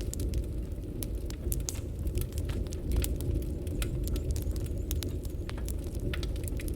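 Wood fire burning: many irregular sharp crackles and pops over a steady low rumble.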